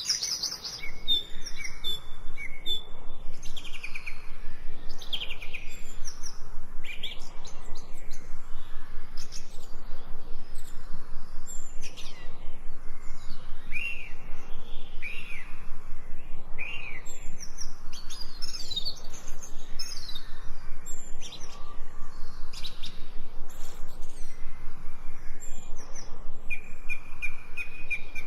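Songbirds chirping and singing, many short calls and quick falling notes overlapping one another.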